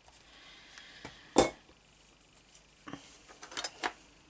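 Small objects handled on a craft desk: one sharp knock about a second and a half in, then a quick run of lighter clicks and taps near the end.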